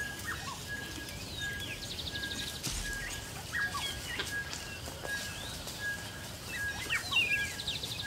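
Woodland birds calling: one bird repeats a short, even whistle about every three quarters of a second, over scattered chirps, sweeping calls and a couple of buzzy trills.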